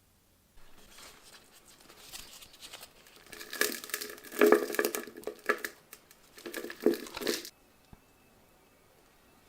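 Crinkly rustling and crackling from something being handled and crumpled, building up and loudest for the last few seconds before it stops abruptly.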